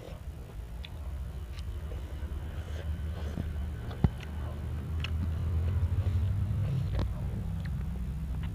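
Someone chewing and biting raw, unripe green mango, with sharp crisp crunching clicks, the loudest about four seconds in, over a steady low rumble.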